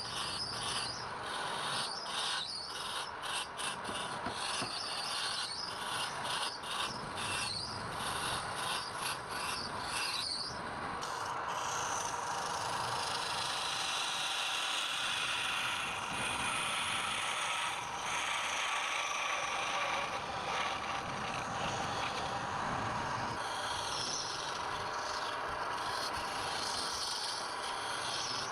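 Wood being worked on a turning lathe: a run of quick scraping strokes for about the first ten seconds, then a steady rough rubbing hiss of the tool or abrasive against the spinning wood.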